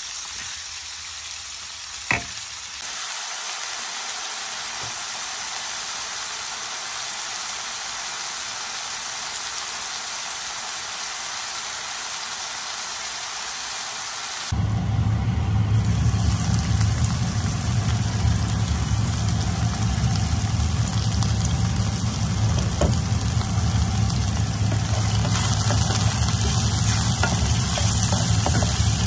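Sliced pork and onion sizzling in a frying pan as they are stir-fried with a wooden spatula, with one sharp tap about two seconds in. About halfway through, a steady low mechanical hum starts and runs on under the sizzling.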